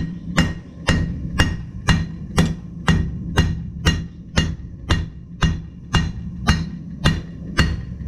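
Hand hammer striking hot metal on an anvil in an even rhythm of about two blows a second, each blow leaving a short metallic ring, over a steady low hum.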